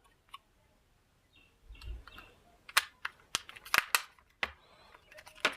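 Sharp, irregular clicks and taps of small plastic and metal parts being handled while reassembling a mobile phone, about a dozen of them, most in the second half, with one soft thud near 2 seconds.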